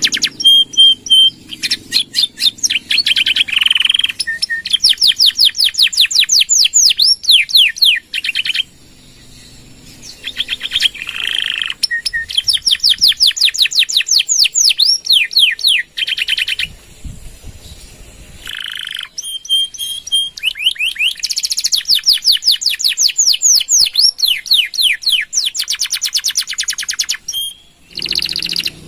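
Domestic canary singing long rapid trills: fast runs of repeated falling notes lasting several seconds, broken by two short pauses.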